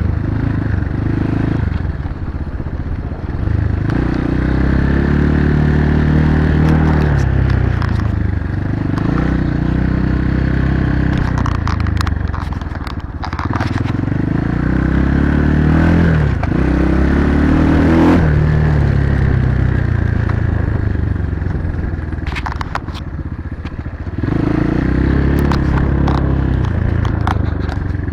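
Dirt bike's single-cylinder engine running under way, its pitch climbing in repeated pulls and dropping back between gear shifts. It eases off for a few seconds and pulls hard again near the end, with scattered clicks and clatter over it.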